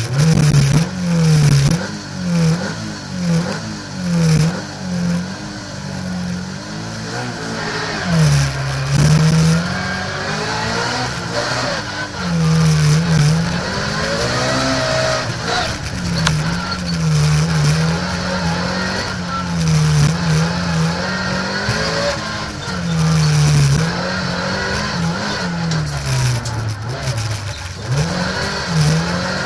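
Honda Civic engine heard from inside the car's cabin, revving hard and falling back again and again as the car accelerates, shifts and slows through a slalom course. It is loud from the first moment, as the car pulls away.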